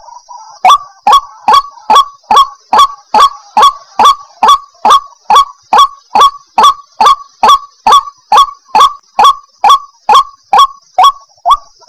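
White-breasted waterhen (ruak-ruak) calling: a short honking note repeated evenly about two and a half times a second, starting after a brief pause.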